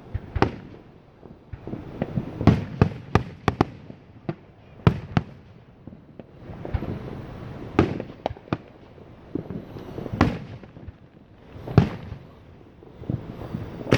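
Aerial fireworks exploding: a string of sharp bangs and cracks in uneven clusters, some single and some in quick runs, over a crackling hiss that swells and fades between them.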